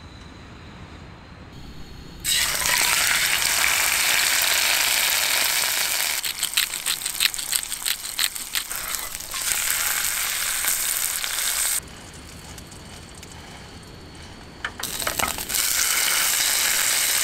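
Food frying, a loud sizzle that starts abruptly about two seconds in, with sharp crackling pops in the middle. It cuts off for about three seconds and then sizzles again near the end.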